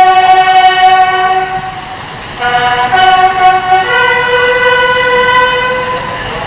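A horn sounding two long, loud blasts, each made of several held tones that step to a different pitch partway through.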